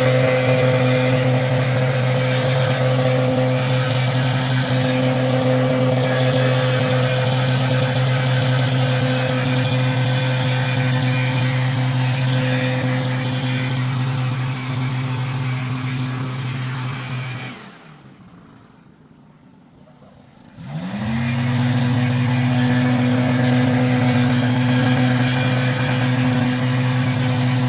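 Husqvarna backpack leaf blower running steadily at high throttle. About two-thirds of the way through it drops off for about three seconds, then revs back up to full speed.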